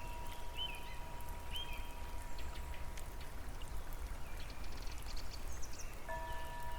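Steady rain with scattered drop sounds, with a few short bird chirps in the first two seconds. A lingering chime tone dies away about halfway through, and wind chimes ring again near the end.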